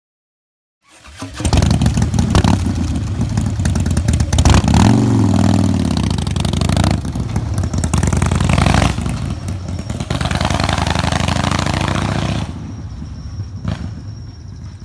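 Harley-Davidson FXSB Breakout's V-twin engine and exhaust running loudly after coming in about a second in, with a rev that rises and falls around four to five seconds in, then settling to a quieter idle near the end.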